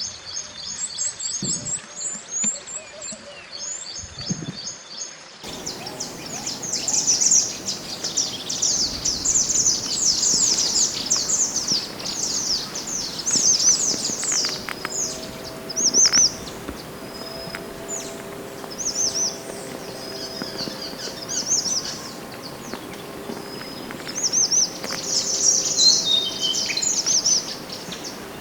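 Mountain mantenan (mantenan gunung) songbird singing: rapid runs of high, sharp chirps and short trills, one phrase after another, with a short pause here and there. The recording changes abruptly about five seconds in, as if spliced.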